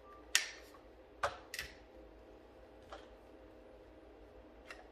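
Sharp plastic clicks and knocks of cordless stick vacuum parts being handled and fitted together, the extension pole being lined up with the body. About five separate clicks: the loudest a third of a second in, two more around a second and a half in, then weaker ones near three seconds and near the end.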